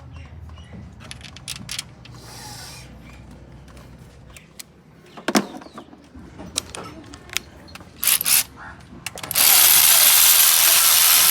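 Scattered metallic clicks and clinks of tools at work on an engine. About nine seconds in, a loud steady rushing hiss starts.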